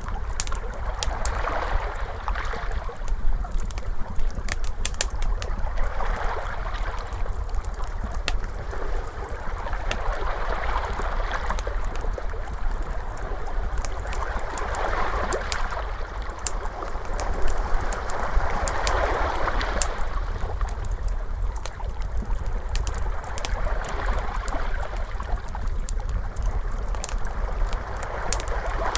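Wood fire crackling with sharp scattered pops, layered over ocean waves that swell and wash back about every four to five seconds, with a steady low rumble underneath.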